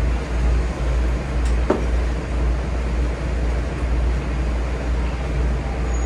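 Keikyu 2100-series train standing at a station: a steady low rumble and hiss from its running equipment, with one sharp click about two seconds in.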